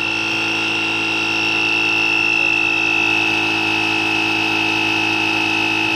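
Agaro portable tyre inflator's small motor-driven compressor running steadily, pumping air into a vehicle tyre, with a high whine over a lower hum.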